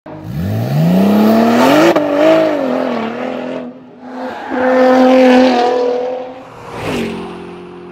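Car engine revving hard twice, its pitch climbing fast in the first second and a half and held high, then a second burst of high revs around the middle. A sharp hit about seven seconds in, followed by a steady tone of several pitches.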